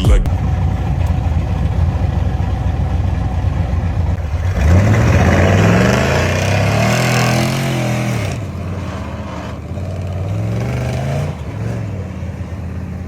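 Pickup truck engine idling, then revved twice: a long rev that climbs and falls back from about four seconds in, the loudest part, and a shorter one near the end.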